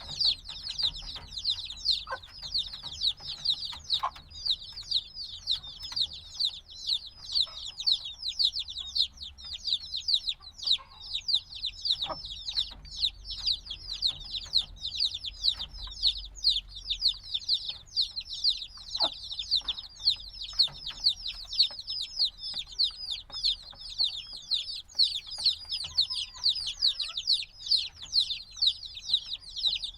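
A brood of chicks a few days old peeping constantly, many overlapping high, short, downward-sliding chirps, with a few faint clicks.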